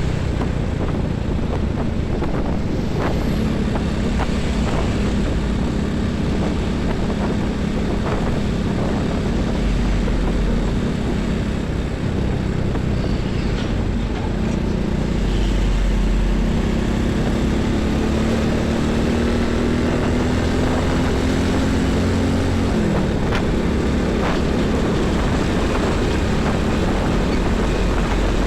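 Heavy highway traffic: trucks and buses passing, with a steady engine drone over the tyre noise. About three-quarters of the way through, one engine's pitch falls away as it goes by.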